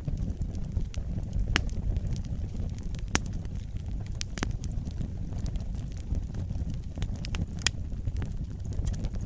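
Wood fire burning in a fireplace: a steady low rumble of flames with sharp crackles and pops at irregular intervals, the loudest about one and a half, three, four and a half and seven and a half seconds in.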